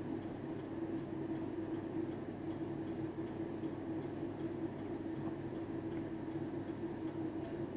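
A steady hum with faint, fast, even ticking over it.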